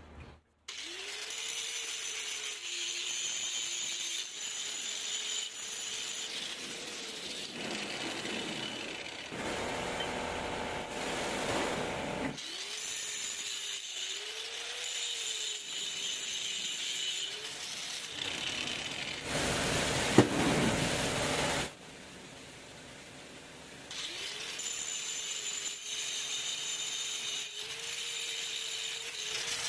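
Small electric power-tool motor spinning up and running, broken by stretches of louder, harsher noise, then winding down at the end.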